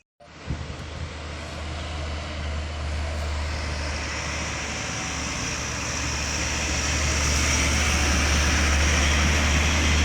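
A heavy diesel vehicle approaching: a steady low engine hum under a broad rush of noise, starting abruptly just after the start and growing steadily louder.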